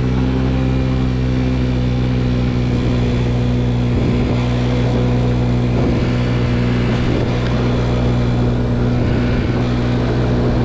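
A 50cc scooter engine running at a steady cruising speed, its note held even.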